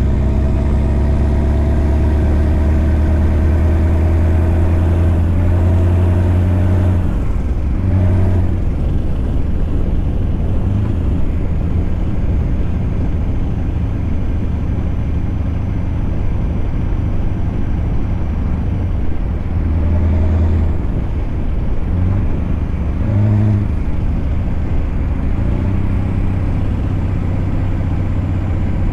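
Scania truck's V8 engine running under load with a deep, steady note, its pitch climbing slightly before it breaks off about seven seconds in, then running on with short surges.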